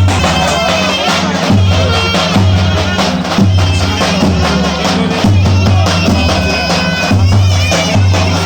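Loud, lively folk dance music: a shrill, ornamented reed melody over a heavy, steady drum beat.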